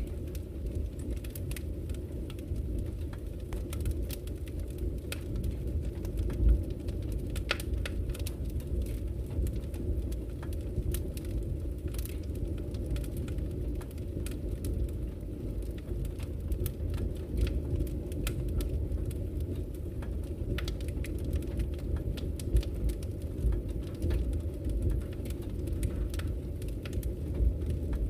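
Wood fire crackling in a fireplace: irregular sharp pops and snaps from the burning logs over a steady low rush of the flames.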